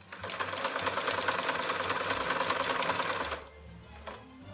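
Pinnock Craftmatic sewing machine running at speed through a zigzag stitch, its needle strokes fast and even, then stopping a little over three seconds in. A couple of light clicks follow near the end.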